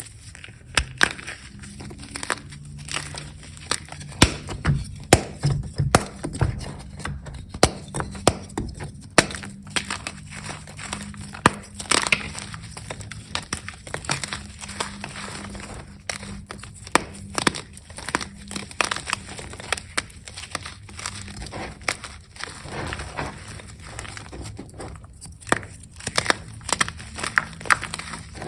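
Hard, over-dried reformed gym chalk being crushed and crumbled, with irregular sharp crunchy cracks and gritty crumbling between them.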